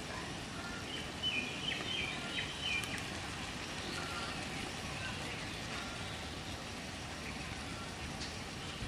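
Steady outdoor background hiss with a few short, high bird chirps about one to three seconds in.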